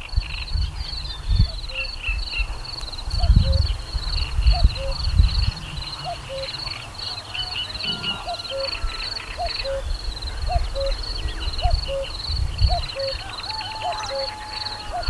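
Birds singing outdoors: a continuous high twittering and chirping, with a short low call repeated a little more than once a second. Irregular low rumbles run underneath.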